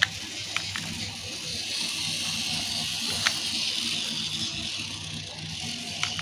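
Small electric motor and gearbox of a homemade RC tractor running steadily with a whir, with a few sharp clicks.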